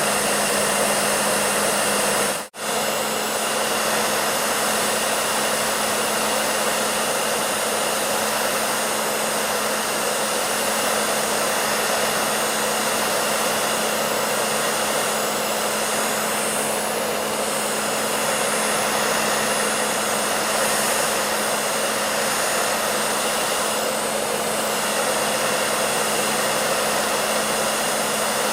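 Hair dryer running steadily: an even blowing hiss with a steady low hum underneath. It cuts out for an instant about two and a half seconds in, then carries on unchanged.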